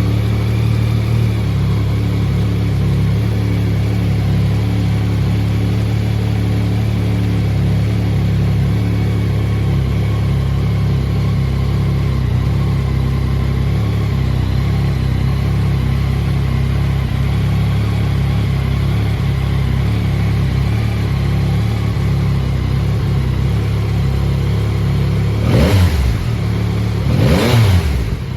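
2022 Yamaha XSR900's inline three-cylinder engine idling steadily, then blipped twice near the end, the revs rising and falling quickly each time.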